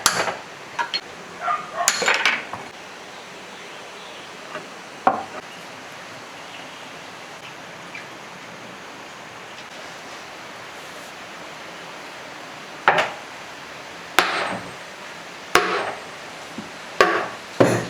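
Separate sharp metal knocks and hammer strikes from taking apart a 22 kW electric motor's casing: a few near the start, a quiet stretch in the middle, then four more toward the end.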